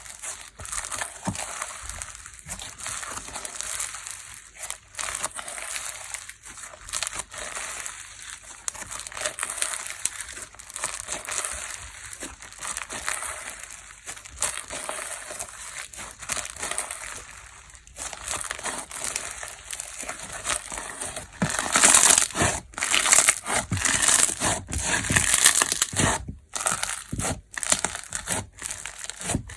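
Sizzly fu-gashi slime being squeezed and pressed by hand, making dense crackling and crinkling with many small pops. It gets louder and more intense about two-thirds of the way through.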